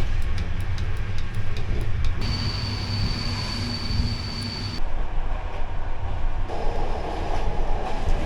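Passenger train running: a steady low rumble of the carriage on the rails. A steady high-pitched squeal joins it about two seconds in and cuts off suddenly near the middle.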